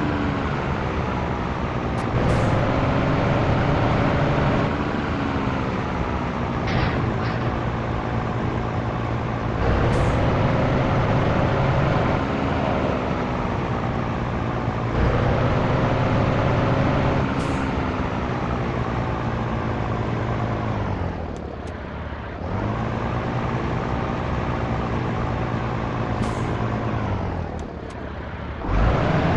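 Scania T113 truck's straight-six diesel pulling through the gears: the revs climb and drop back at each upshift, with a short hiss of air at several of the shifts. Twice near the end the engine falls away briefly, then pulls again.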